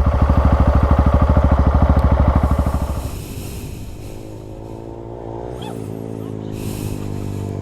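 Single-cylinder dual-sport motorcycle engine running under throttle with a heavy, pulsing beat. About three seconds in, the rider backs off and the engine drops to a quieter, steadier run.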